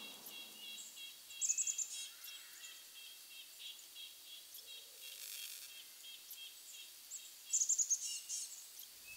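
Birds chirping in a forest: a steady run of quick, repeated high chirps, with a short, louder, higher trill about a second and a half in and again near the end.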